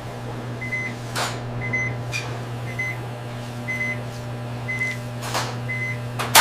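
Medical monitor beeping, short high beeps about once a second, over a steady low electrical hum, with a couple of soft whooshes.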